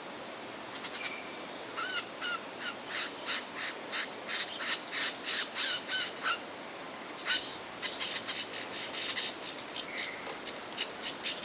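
Lyrebird singing a rapid run of short, harsh, rasping calls, about three a second, with a few short whistled notes mixed in, as part of its mimicking song.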